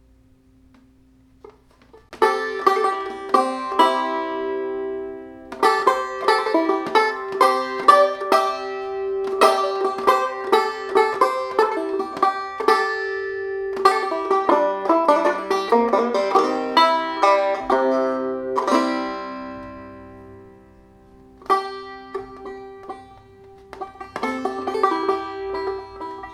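Instrumental music played on a plucked string instrument: quick picked notes that begin about two seconds in and run in phrases, with a lull near the middle and another about three-quarters of the way through before the picking resumes.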